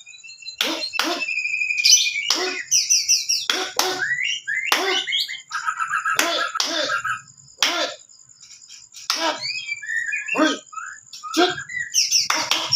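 Rapid bird-like chirps and short sharp calls in quick succession, mixed with gliding whistles, over a steady thin high tone; there is a quieter lull around the middle.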